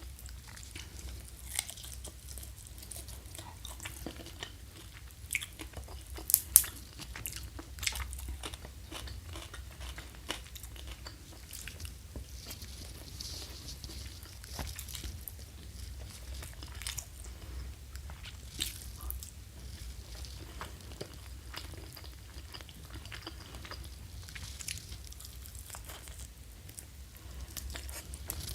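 Close-miked eating: biting into and chewing crispy fried quail, with many small crunches and crackles and a few louder bites about six seconds in.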